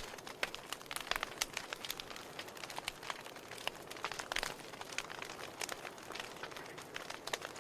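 Wood fire burning in a fireplace, crackling with many irregular pops and snaps over a soft hiss.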